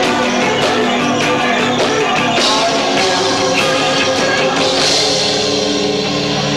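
A loud live rock band with two drummers, recorded low-fi on a camcorder's built-in microphone, so the mix is dense and cluttered. Held notes ring out over the playing in the last second or so.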